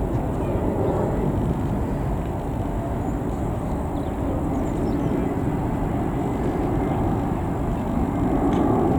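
Airbus A319-111's CFM56 jet engines heard as a steady low rush of jet noise, growing a little louder near the end.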